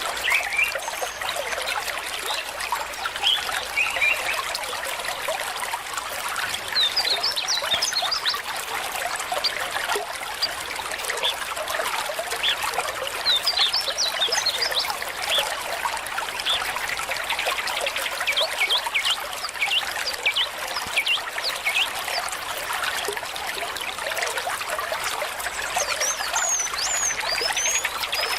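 Stream water trickling steadily, with short bursts of high chirps now and then.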